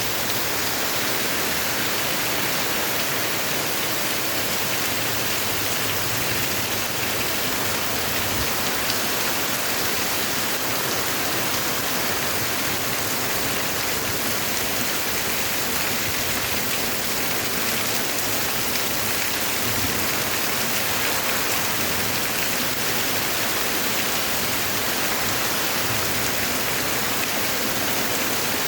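Heavy rain falling steadily: a dense, even hiss of downpour without let-up.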